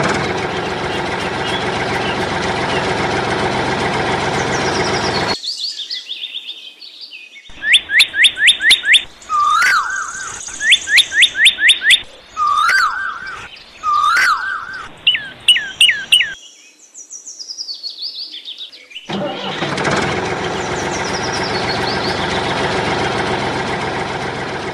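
A bird chirping in quick runs of high, downward-sweeping notes in the middle stretch. Before and after it comes a steady, noisy hum that starts and stops abruptly.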